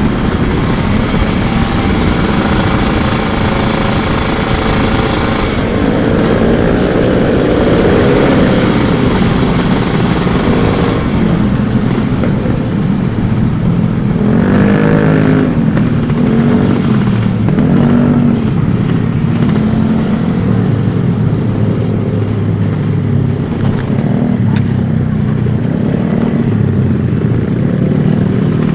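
Two-stroke 150 cc Kawasaki sport motorcycle being ridden, its engine revving up and dropping back again and again as the rider accelerates and shifts gears, over a steady rushing noise.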